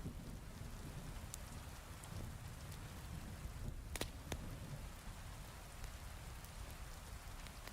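Heavy rain falling steadily, with a few sharp crackles and pops from a wood fire, the strongest two about four seconds in.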